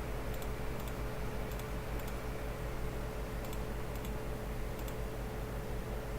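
Faint light clicks at a computer, several of them quick double clicks spread irregularly, over a steady electrical hum and room hiss.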